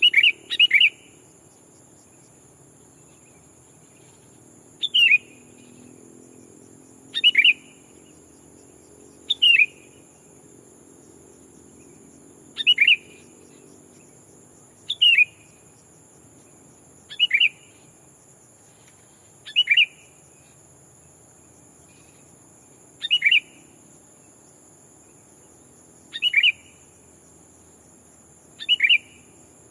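Sooty-headed bulbul giving short, sharp calls, repeated every two to three seconds and sometimes doubled. It is a decoy bird calling to draw in wild rivals.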